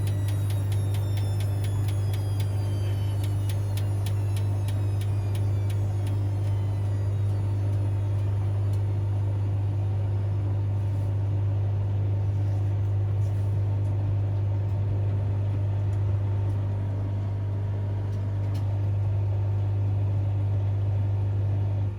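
Washing machine running with a steady low hum while the drum motor's whine falls in pitch over the first several seconds, with rapid ticking, as the spin winds down. The hum cuts off suddenly at the end.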